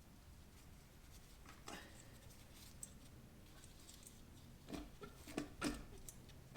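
Faint clinks and knocks of tools against metal engine parts, a few scattered and then several in quick succession near the end.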